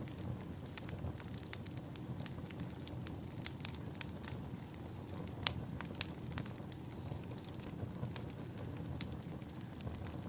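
Crackling wood fire in a fireplace: a steady low rumble with irregular sharp pops and snaps, the loudest about five and a half seconds in.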